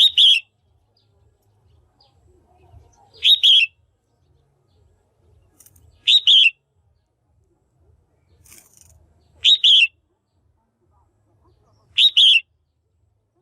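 Female red-whiskered bulbul calling: a short, loud, two-note call repeated five times, about every three seconds, each note sliding slightly down in pitch.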